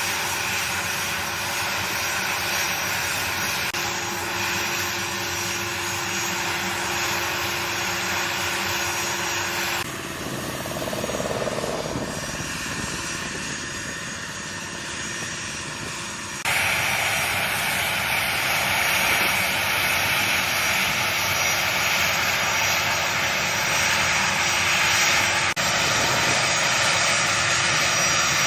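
A-10 Thunderbolt II's twin General Electric TF34 turbofan engines running, a steady jet whine over a broad rush of noise. The sound drops abruptly and turns duller about ten seconds in, then comes back louder about six seconds later.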